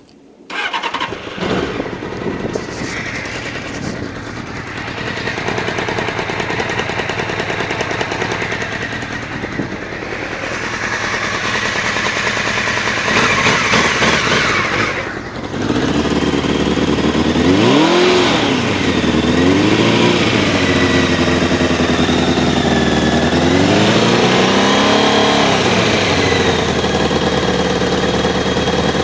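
Honda CBR600F2 inline-four motorcycle engine starting up about half a second in, then running, with the revs raised and let fall several times in the second half. It carries an unexplained odd noise that the owner says is not the cam chain tensioner.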